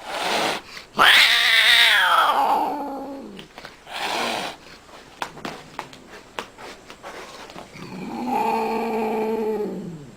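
Cat yowling: a loud, long yowl that falls in pitch, a short call, then another drawn-out yowl near the end that drops away. A few sharp clicks come between the calls.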